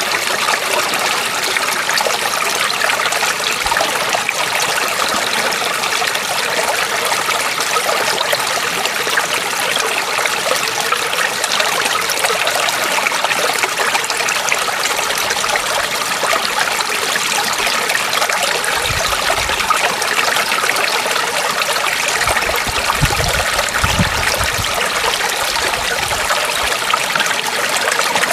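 Stream water trickling and running steadily over stones. A few brief low rumbles come in over the last third.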